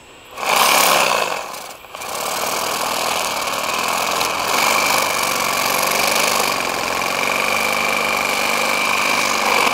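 Electric power tool motor: a short run, a brief stop near the two-second mark, then steady running.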